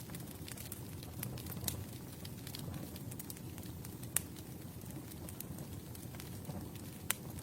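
Campfire burning: a steady low rumble of flames with scattered sharp crackles and pops, two louder pops about four and seven seconds in.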